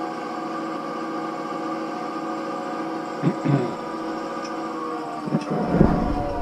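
EMD SW1200 switcher locomotive's 12-cylinder 567C diesel engine running steadily, held up in a throttle notch, played through a TV speaker. A couple of knocks come about three seconds in, and a heavier rumble and clatter starts near the end.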